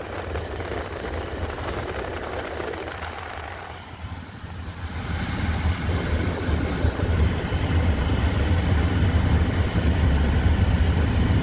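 Mercury Montego's 3.0 L V6 and tyres heard while driving: a steady low rumble of engine and road noise. It dips briefly about four seconds in, then grows louder and stays so.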